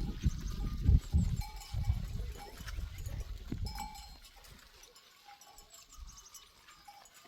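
Livestock with bells: short, scattered clinks of bells among the animals. A loud low rumble fills the first four seconds, then dies away, leaving only the faint bell notes.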